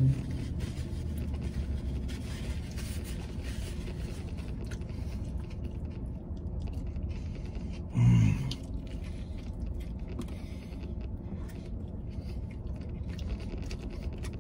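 A man chewing a mouthful of burger inside a pickup truck's cab over a steady low rumble. About halfway through, one short hum with falling pitch comes through his full mouth.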